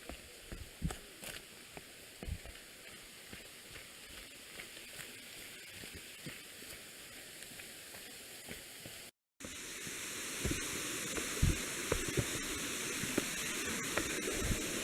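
Footsteps on a trail over a faint steady hiss. After a cut about nine seconds in, a louder, steady rush of waterfall water takes over, with a few footfalls.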